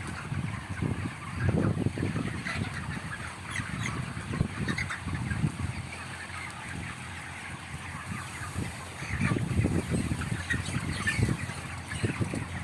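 Many birds calling at once: short overlapping chirps and calls with no pause.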